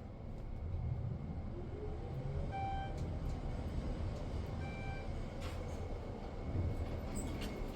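Steady low rumble inside an elevator car, with two short electronic beeps about two seconds apart and a few light clicks.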